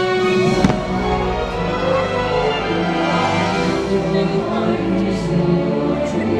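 Orchestral fireworks-show theme music played over the park's loudspeakers, with a single firework bang about two-thirds of a second in and a few faint pops later on.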